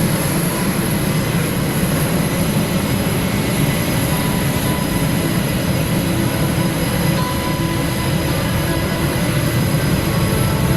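Steady, loud rumble of aircraft engine noise, with a thin high whine above it.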